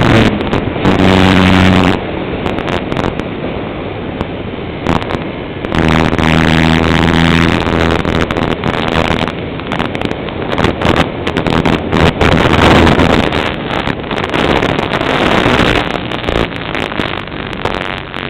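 A Cessna light aircraft's piston engine and propeller droning steadily, the low engine note swelling and fading now and then, with wind buffeting the microphone.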